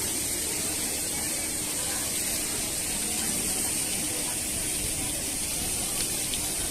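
Steady hiss of spraying water, with a constant high-pitched note over it.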